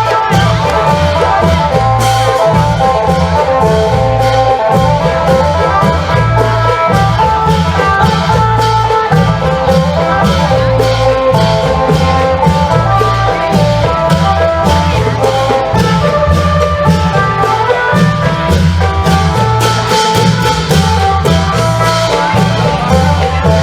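Isan klong yao long-drum band playing with a phin lute: a plucked lute melody over a steady, repeating pattern of deep long-drum strokes, with cymbal strokes throughout.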